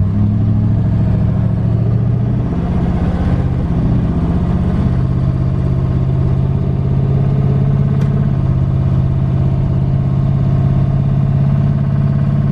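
LS V8 engine of a twin-turbo Fox-body Mustang, heard from inside the car while driving. The engine note rises about three seconds in, then holds a steady drone at cruise.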